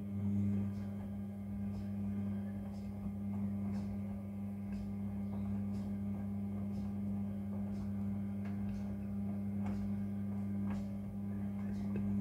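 Midea front-loading washing machine's drum motor running during the tumbling wash: a steady electric hum, with faint ticks now and then.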